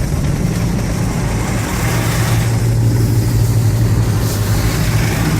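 Automatic car wash running, heard from inside the car: a steady low hum that grows stronger about two seconds in, over an even hiss of spray on the car.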